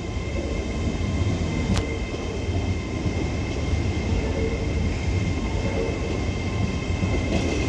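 Electric multiple-unit train running in the station: a steady low rumble under a steady high-pitched whine, with a single sharp click about two seconds in.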